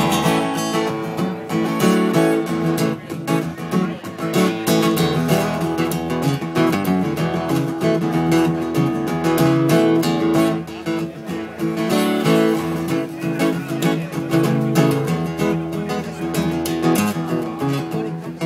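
Acoustic guitar played live in an instrumental passage, strummed and picked with a steady, busy rhythm and no singing.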